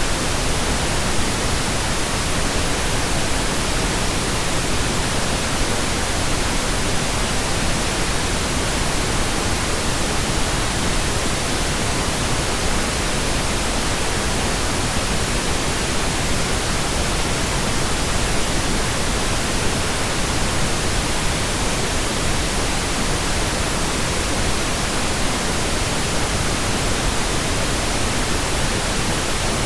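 Steady synthetic pink noise, a constant even hiss with no changes.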